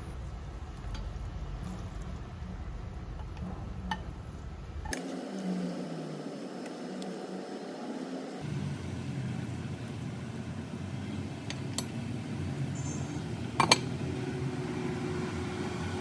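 Steady household room noise with a few sharp clinks of tableware, the loudest near the end.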